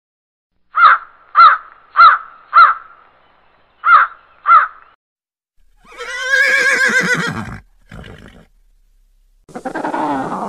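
A horse whinnying for about a second and a half, its pitch dropping at the end, with a short call just after it. Before it come six short, sharp animal calls in two groups, four and then two. Near the end gentoo penguins start a dense run of calls.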